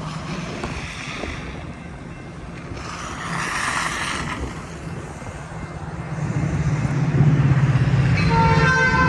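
Low diesel train rumble growing louder. Near the end a Metra locomotive's air horn starts sounding, a steady chord of several tones.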